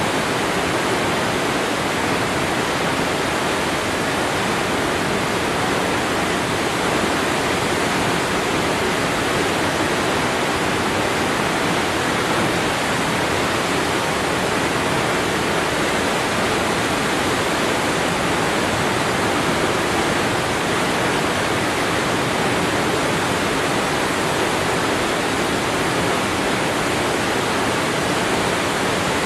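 Waterfall: a steady, unbroken rush of falling water, even from low to high pitch with no changes.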